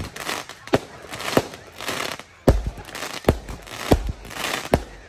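Fireworks going off: a run of sharp bangs, roughly one a second, with crackling between them.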